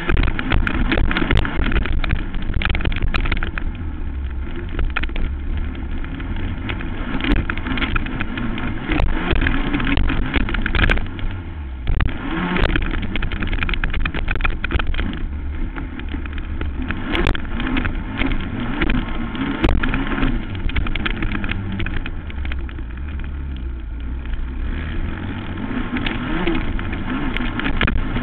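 Racing quad (ATV) engine running continuously through a motocross race lap, with frequent short knocks and rattles over the track.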